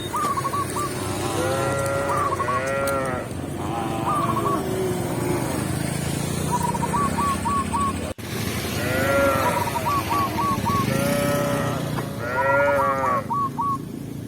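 Cows mooing: several loud, drawn-out calls, two in the first few seconds and three more in the second half. Behind them a bird calls over and over in quick runs of four or five short chirps.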